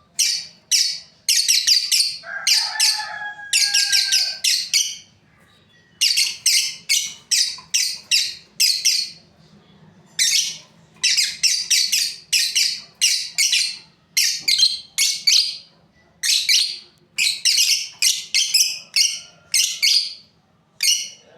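Lovebirds chirping: runs of rapid, shrill chirps in quick bursts, broken by pauses of about a second, with a brief lower falling whistle near the start.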